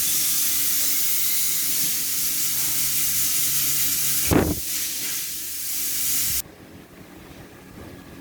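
Steady loud hiss of escaping compressed air in a workshop that cuts off suddenly about six seconds in. A single sharp knock sounds about four seconds in.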